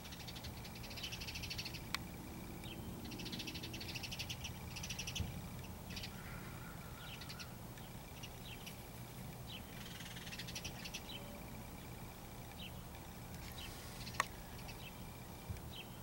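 Birds calling: several rapid rattling chatters of about a second each and many short, high chirps scattered throughout, with two sharp clicks, one about two seconds in and one near the end.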